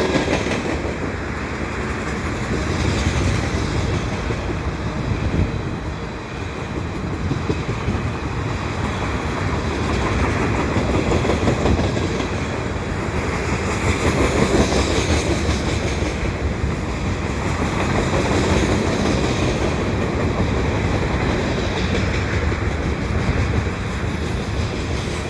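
CSX freight train rolling past, its cars' wheels running on the rails in a steady rumble that swells and eases every few seconds.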